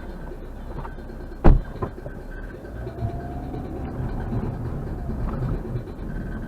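Car cabin noise, the engine and running gear giving a steady low rumble, with one sharp loud thump about a second and a half in and a smaller knock just after it.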